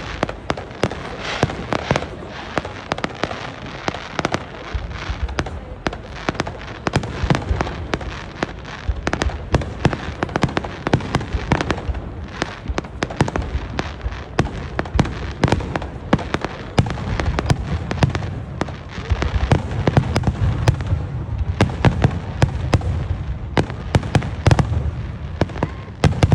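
Aerial fireworks going off in a rapid, continuous barrage of sharp bursts and crackles. Deeper booms build up in the second half. This is the dense barrage of a display's grand finale.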